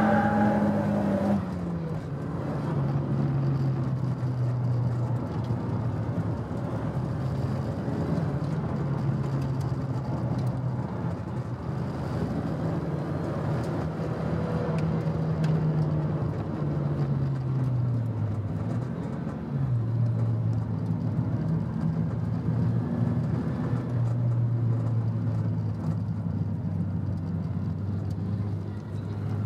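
Nissan Silvia S15 Spec R's turbocharged SR20DET four-cylinder heard from inside the cabin. High revs fall away about a second and a half in, then the engine runs at low, fairly steady revs, dips briefly about two-thirds through, and picks back up.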